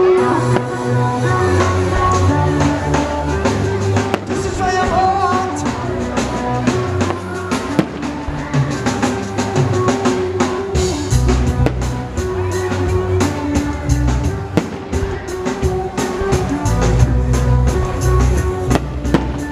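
Loud music with heavy bass and a beat, overlaid by many sharp cracks and bangs of fireworks going off, coming thickest in the second half.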